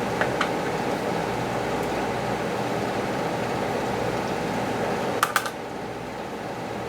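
Steady fan-like hum of shop air, with two pairs of quick sharp clicks, one just after the start and one about five seconds in; after the second pair the hum drops slightly.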